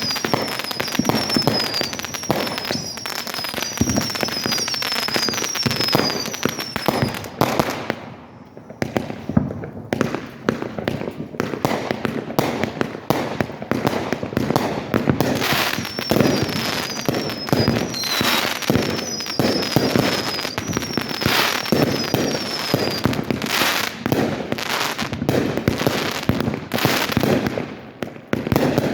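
Fireworks show: a dense, continuous barrage of bangs and crackling, easing off briefly about eight seconds in. Through much of it a high, short falling whistle repeats over and over.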